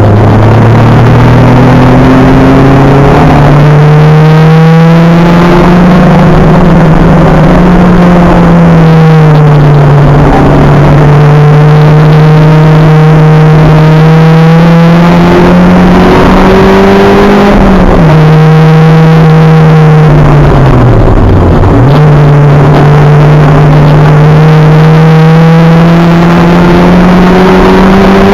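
Acura Integra race car's four-cylinder engine running hard under racing load, its pitch climbing steadily through long pulls. It dips briefly at shifts or lifts, with a sharp drop and recovery about two-thirds of the way through.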